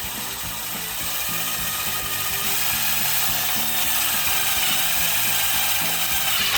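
Power driver running continuously, driving a self-tapping screw through a metal corner angle into the wooden hive body; it stops abruptly near the end.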